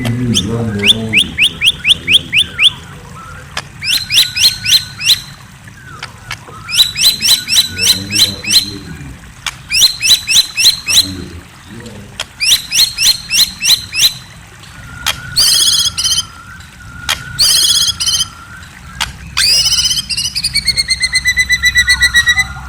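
Murai songbird singing: bouts of rapid repeated chirps about a second long, then louder whistled notes, ending with a fast run of falling notes.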